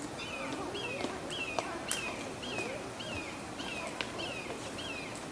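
A bird repeating the same short, high chirp over and over, a little under twice a second, with a few sharp clicks now and then.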